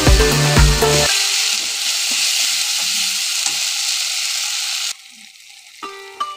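Tomato and spice masala sizzling in hot oil in a pan as a spatula turns it: a steady hiss that drops away suddenly about five seconds in. Background music with a beat plays for the first second and comes back near the end.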